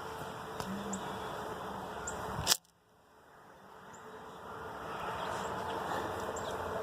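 Steady background hiss with a few faint ticks. About two and a half seconds in, a sharp click, then the sound cuts out completely and fades back up over a couple of seconds, like a recording being stopped and restarted.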